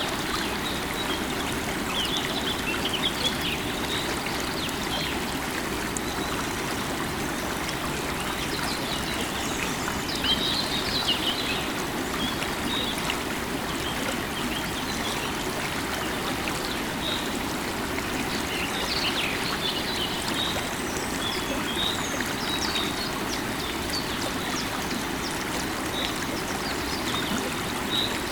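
Running water of a stream or river, a steady rushing flow, with birds chirping in short scattered calls throughout.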